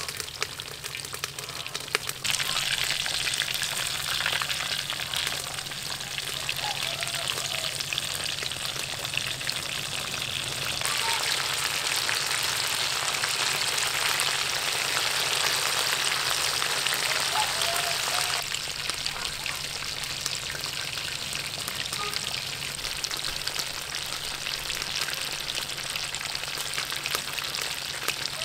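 Breaded chicken breast deep-frying in hot oil, a steady crackling sizzle. It gets louder about two seconds in and again from about eleven to eighteen seconds, then eases.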